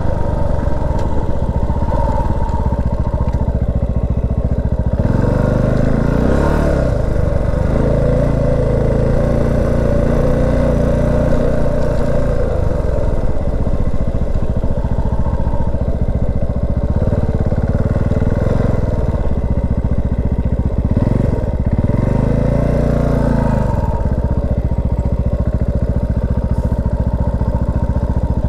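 Single-cylinder Herald motorcycle engine running on the road. Its note falls and rises again around six seconds in and again around twenty-two seconds in.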